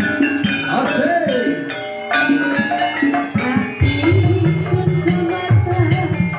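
Live ebeg dance accompaniment music: an ensemble of sustained pitched notes over kendang hand-drum strokes.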